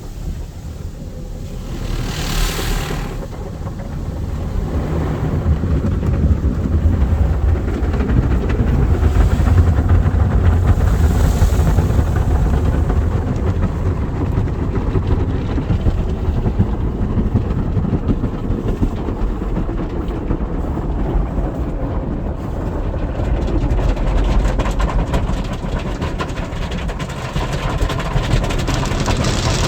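Motor City Wash Works soft-touch tunnel car wash running, heard from inside the car: a steady low rumble of the wash machinery with water spraying and washing over the car body. A few short hissing bursts come about two seconds in and around ten seconds in.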